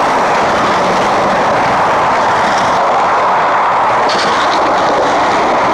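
Steady, loud road noise of traffic passing on the bridge deck, mixed with wind.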